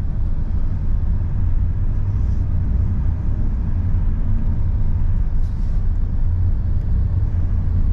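Car on the move, heard from inside: a steady low rumble of road and engine noise.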